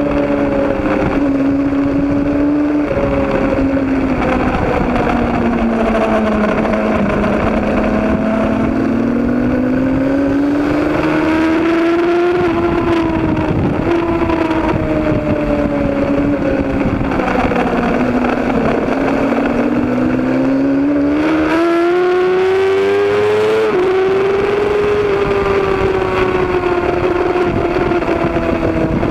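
Racing motorcycle engines running hard and continuously, their pitch slowly rising and falling again and again as the bikes come and go with throttle changes, with a sharper climb in pitch about two-thirds of the way through.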